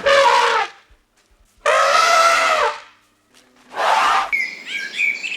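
A farm animal giving three loud, harsh cries, the middle one the longest at about a second, with small birds chirping faintly near the end.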